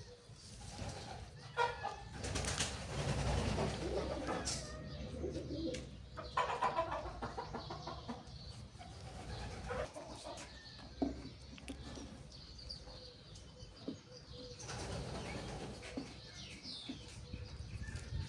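Birds calling, with scattered rustles and sharp knocks, one standing out about 11 seconds in.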